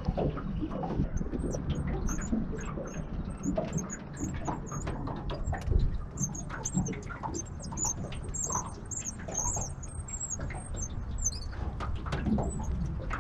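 Small birds twittering in a quick series of short, high-pitched chirps, over a low rumble and scattered clicks of handling noise.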